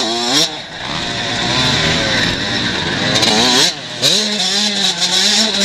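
125cc motocross bikes racing, engines revving up again and again with the pitch rising and dropping as they shift gears, several bikes overlapping. Near the end one engine holds a steady high note.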